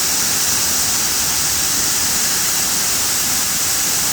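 Waterfall: a steady rush of falling water, an even hiss with no change in level.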